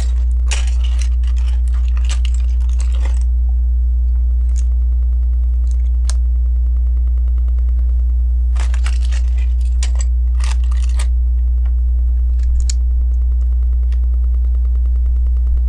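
Plastic LEGO pieces clicking and rattling as they are sorted through by hand. This comes in two spells of a few seconds each, with a few single clicks between, over a steady low hum.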